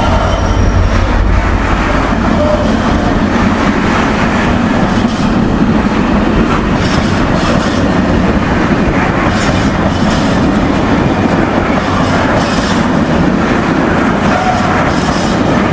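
Intermodal container train hauled by a Class 66 diesel rolling past at speed: a steady loud rumble of wagons, with the wheels clacking rhythmically over the rail joints. The low engine rumble is heaviest in the first couple of seconds.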